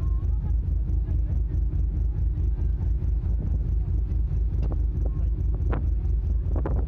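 Steady low rumble of a drift-ice sightseeing icebreaker's engines, with a few sharp knocks in the second half.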